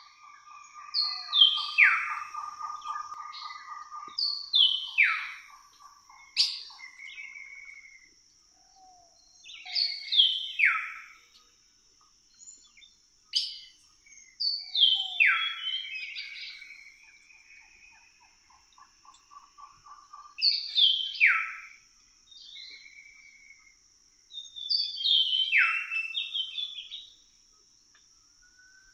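A bird repeating the same short phrase of quickly falling notes, six times about five seconds apart, over a steady high-pitched whine. A low, fast rattling trill runs under the first phrase and comes again about two-thirds of the way through.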